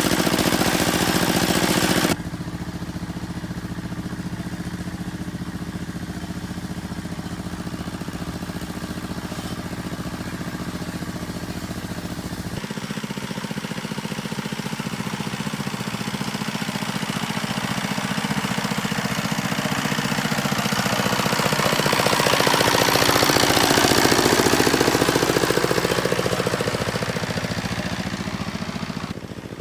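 A small engine running steadily. It changes abruptly twice, about two seconds in and again near the middle, then swells louder late on with its pitch sliding down before easing off.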